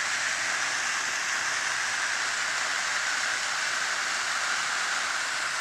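Hand-held Jumbo California Candle firework burning, spraying sparks with a steady, even hiss and no pops.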